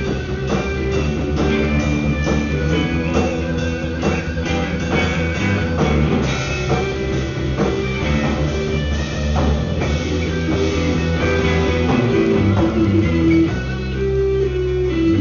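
Live band playing a rock tune: electric guitar over a drum kit keeping a steady beat.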